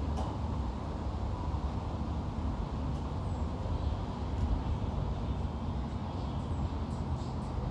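Outdoor background noise: a steady low rumble, with a few faint, short high chirps in the second half.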